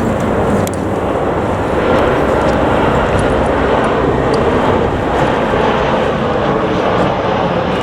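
Jet airliner's engines running loud and steady, a dense even roar with no break.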